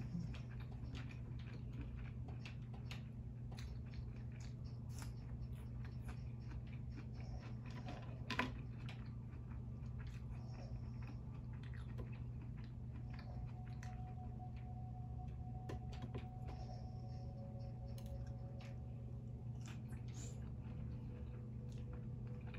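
Close-up mouth sounds of eating curly fries and a burger: chewing and biting with small crunches and wet squishes, and one sharper, louder click about eight seconds in.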